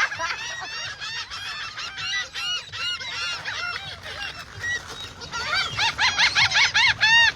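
A flock of seagulls calling, many short arched cries overlapping one after another, growing louder and denser about five and a half seconds in.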